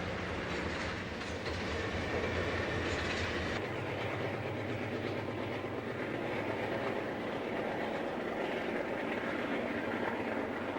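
Train rolling along the track, wheels clicking over the rail joints. The sound changes abruptly about three and a half seconds in.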